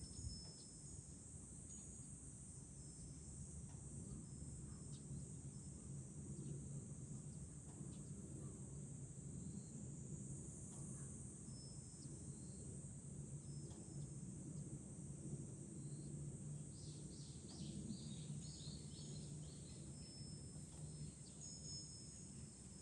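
Cicadas droning steadily in a high-pitched chorus, with a Japanese wind chime (fūrin) giving short high rings every few seconds. A quick run of chirps comes about two-thirds of the way through, over a low rumble of wind.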